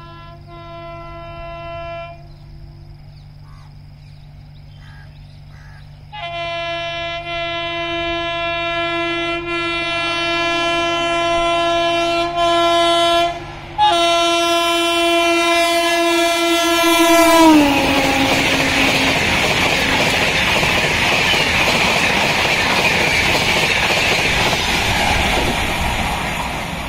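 Gatimaan Express's WAP-5 electric locomotive passing at about 160 km/h, sounding its horn. First a short blast, then, a few seconds later, a long one held for about ten seconds with one brief break, its pitch dropping as the engine passes. Then the loud rush of the train going by at speed.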